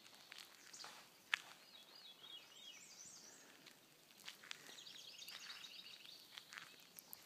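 Faint birdsong: a songbird sings a phrase of quick repeated high notes about two seconds in, and another rapid trill about five seconds in. Soft, scattered footsteps crunch on gravel.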